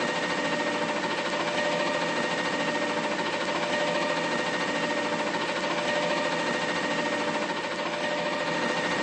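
Mack LR McNeilus front-loader garbage truck running, a steady mechanical drone with a constant high whine that does not change.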